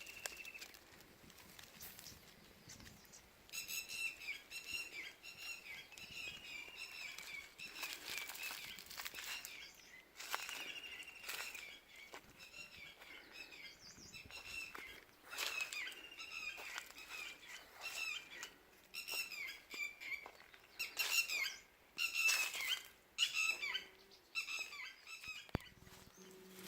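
Quail calling in repeated bouts of quick, high, chirping notes, with short sharp rustling noises in between.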